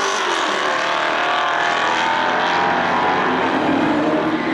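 Hemi V8 drag cars racing down the strip, engines running at high revs with the pitch shifting as they go.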